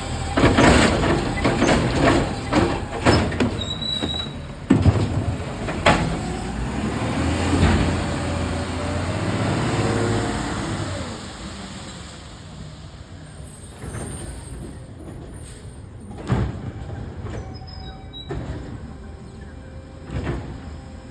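Recycling truck making a curbside pickup: a series of clanks and bangs over the first several seconds, then the engine revs up for a few seconds while the load is handled, then it drops back to a steady run with a few single knocks.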